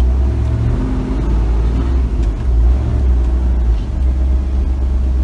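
Chevrolet Silverado pickup's engine running at low speed, a steady low rumble heard from inside the cab.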